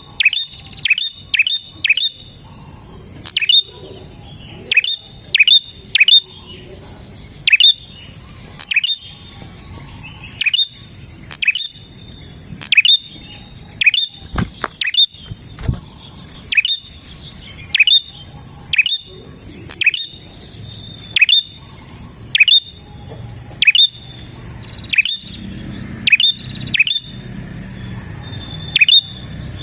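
Prinia calling persistently: sharp, high notes that drop steeply in pitch, given singly or in quick runs of two or three about every second.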